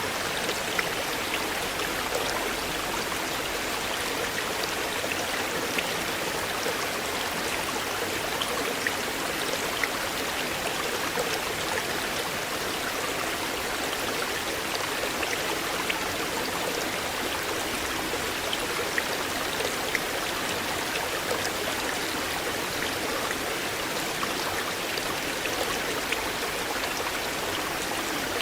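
River water flowing: a steady rush with many small splashes and drips scattered through it.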